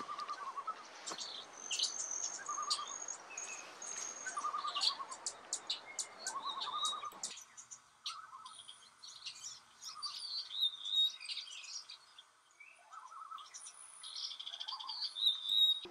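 Wild songbirds chirping and calling: many short high chirps mixed with repeated short buzzy trills, over a soft background hiss that drops away abruptly about seven seconds in.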